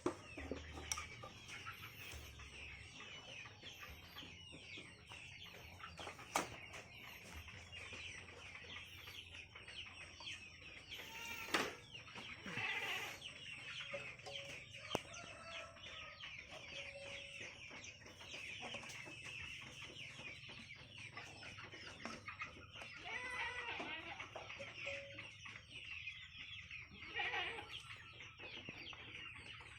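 Chickens clucking and calling, a dense run of short calls, with a few sharp knocks in between.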